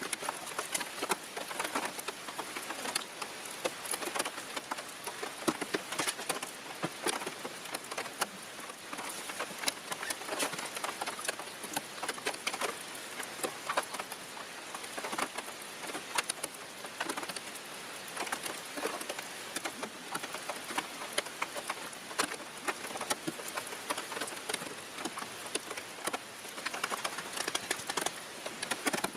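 Steady rain, with many close drops pattering in quick, irregular clicks.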